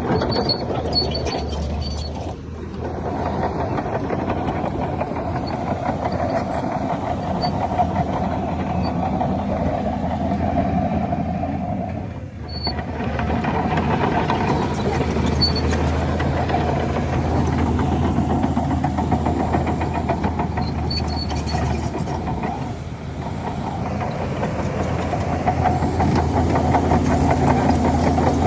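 Shantui DH17 C3 bulldozer's diesel engine working under load, a steady low drone with a fine rattle. It eases off briefly about every ten seconds, three times.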